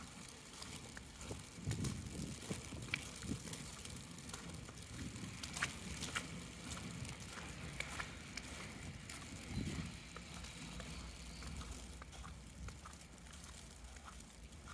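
Faint footsteps on wet, slushy ground, with scattered light ticks of wet snow landing on an umbrella.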